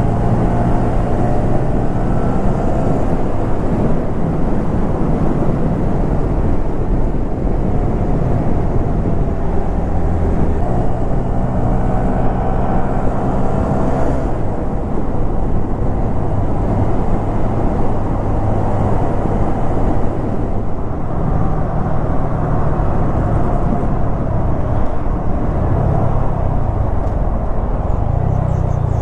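Honda Grom's 125cc single-cylinder engine running while the bike is ridden, under steady wind rush on the microphone. The engine's pitch shifts several times as the speed changes.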